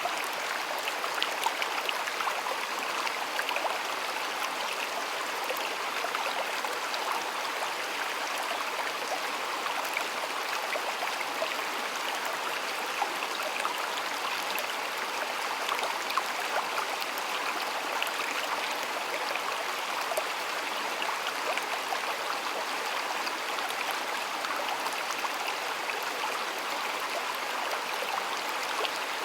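Shallow stream of water flowing and babbling steadily, with small splashes and trickles scattered through it.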